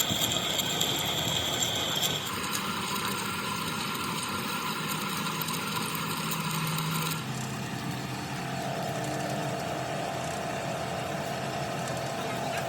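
Workshop machinery running steadily with a mechanical whir, changing character abruptly twice, about two and seven seconds in.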